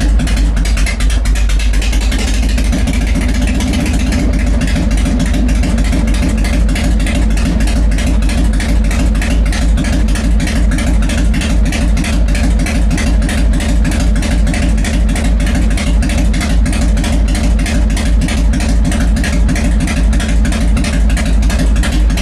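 Harley-Davidson Fat Boy's air-cooled Evolution V-twin idling with a steady, even beat, running on its first start after winter storage.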